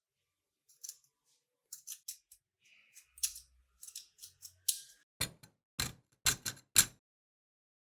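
Hand work on a small model car during disassembly: light clicks and scrapes, then about five sharp knocks in quick succession in the second half.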